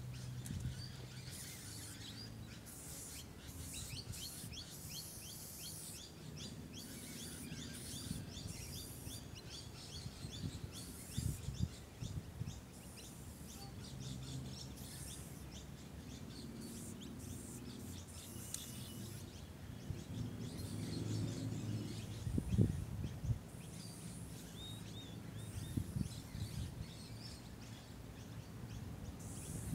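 Birds chirping and calling in many short notes, over a low outdoor rumble. A few dull low thumps stand out, the loudest about two-thirds of the way through.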